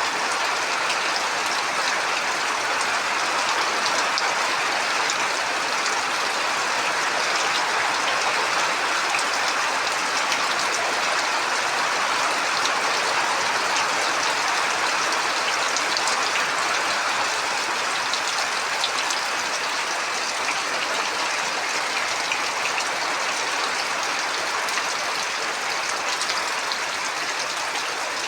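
Heavy rain falling steadily, with scattered drops ticking.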